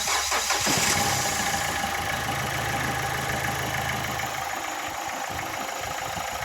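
Nissan Sunny's engine idling steadily just after being started, running again with a newly fitted alternator and belt in place of the one whose seized bearing had stopped it cranking.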